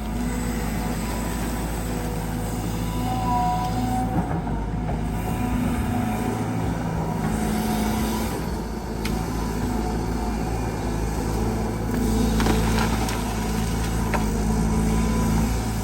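Caterpillar 320GX excavator's Cat C4.4 four-cylinder diesel engine and hydraulic pump running steadily under working load, with a few brief knocks and short whining tones.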